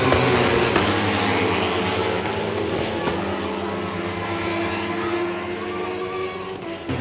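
Superbike racing motorcycle engines running hard at high revs, a loud steady drone that slowly fades.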